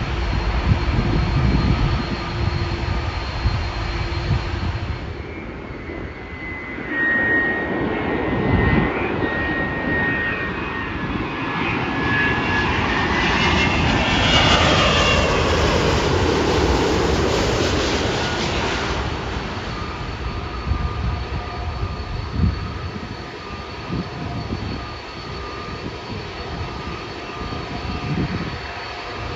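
Jet airliner's engines passing, swelling to their loudest about halfway through with a whine that falls in pitch, then easing back to a steady rumble.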